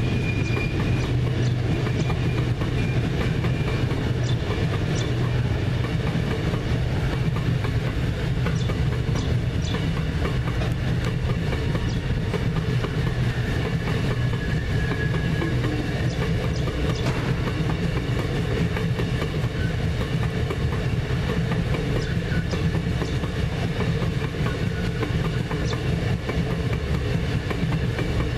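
Loaded iron ore hopper wagons rolling past: a steady low rumble with the wheels clicking and clattering irregularly on the rails.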